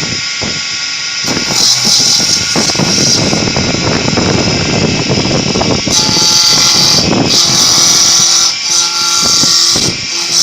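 Woodworking machine running and cutting wood: a steady high whine and hiss over a rough, churning cutting noise that is densest in the middle and eases about six seconds in, when a steadier machine tone takes over.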